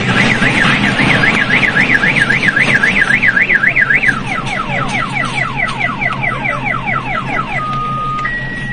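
Car alarm siren going through its cycle: a fast up-and-down warble about three times a second, then quick falling chirps about five a second, then a steady low tone switching to a higher one near the end, over a low hum.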